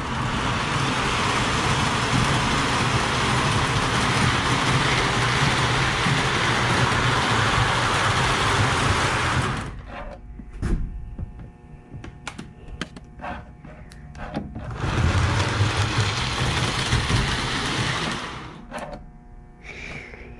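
Model train running on its track, a steady motor-and-wheel rumble with a low hum. It is loud for about ten seconds, drops away to scattered clicks, then comes back loud for a few seconds before fading near the end.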